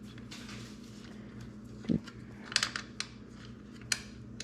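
A few sharp clicks and light metal clinks of small engine parts and tools being handled, with a dull thump about two seconds in, over a steady low hum.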